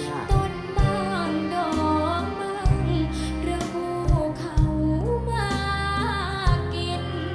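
Thai luk thung band music with a female lead singer whose melody slides between held notes over sustained bass and a regular kick-drum beat.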